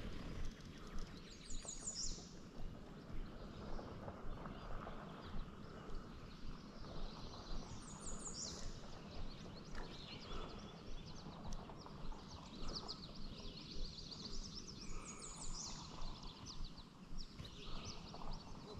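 A songbird sings the same short, falling, high phrase three times, about seven seconds apart, over a steady outdoor background. Underneath, a spinning reel is cranked at an even pace to retrieve a lure.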